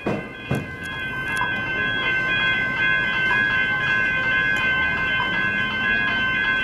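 Train running over the tram-railway square crossing, the wheels clacking over the crossing gaps and the rumble building over the first second. Steady high-pitched ringing tones run under it throughout.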